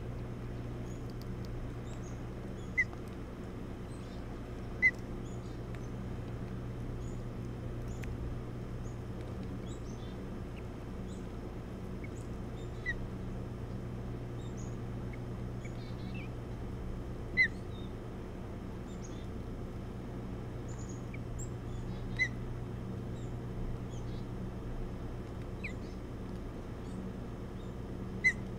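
Bird chirps: about six short, sharp single chirps spaced several seconds apart, with fainter, higher chirps scattered between them, over a steady low hum.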